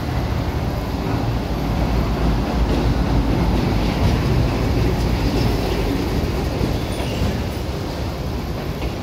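Diesel locomotive passing slowly close by at the head of an arriving passenger train, followed by its coaches rolling past: a steady low rumble, loudest about three to four seconds in and easing a little after.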